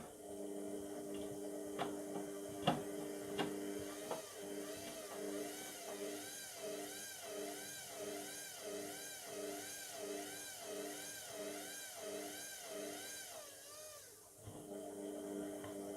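Indesit MTWC71252WUK washing machine's motor turning the drum, its whine wavering up and down a little faster than once a second with each revolution as it tries to balance a single-item load that it keeps failing to even out. A few sharp knocks come in the first few seconds, and the motor drops out briefly near the end before starting again.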